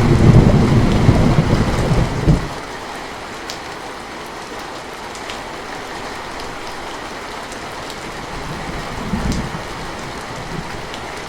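Steady rain pattering, with thunder rumbling loudly for the first two seconds or so before dying away, and a fainter roll of thunder about nine seconds in.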